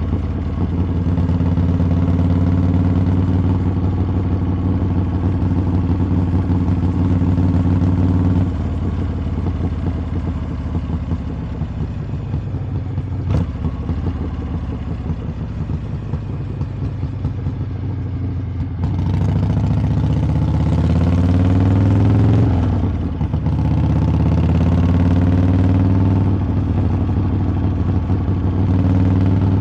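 Harley-Davidson V-twin exhaust while riding. The engine runs steadily, then about eight seconds in it drops off to a quieter, lower note for about ten seconds, with a single sharp click midway. After that the revs climb again, dip briefly, and settle back into a steady cruise.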